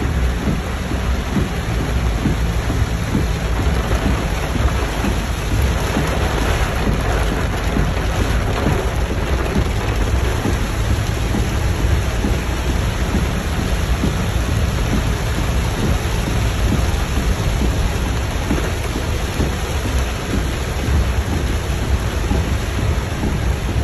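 Heavy rain drumming on a car's roof and windshield, heard from inside the cabin while driving, over a steady low rumble of the car and its tyres on the wet road.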